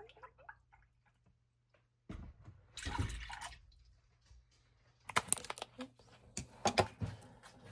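A short burst of water, like a splash or pour, about two seconds in, then a run of light clicks and knocks near the end.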